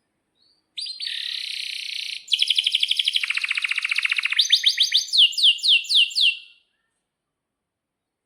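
Domestic canary singing: about a second in, a buzzy phrase, then a fast rapid trill, then a run of descending sweeping notes that slow down before the song stops.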